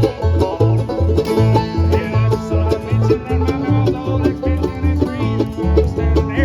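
Bluegrass band playing, a banjo picking over a bass line that alternates notes about twice a second.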